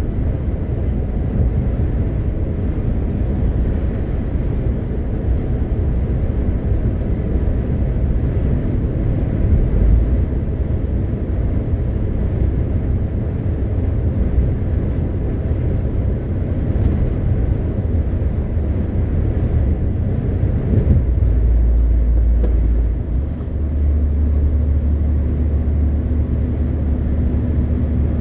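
MAN TGX 520 truck on the move: its diesel engine and tyre and road noise run as a steady, dense rumble. About three-quarters of the way through, the engine note settles into a steadier low drone.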